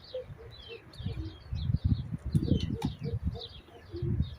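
Many small birds chirping in quick short notes, with repeated short low calls like cooing underneath. Irregular low thumps and rumbles come and go through the middle.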